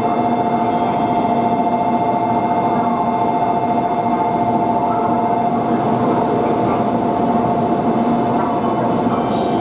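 700 series Shinkansen train sounding steadily, a constant noise with a high two-note hum that fades out about two-thirds of the way through.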